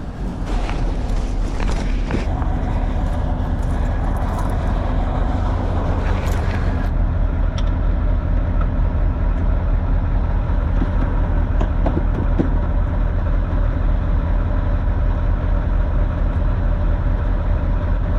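1996 Ford F350's 7.3 Powerstroke V8 turbo-diesel running steadily, with rustling and clicks over it for about the first seven seconds.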